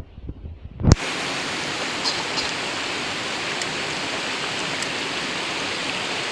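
A sharp knock about a second in, then a steady, even rush of flowing river water.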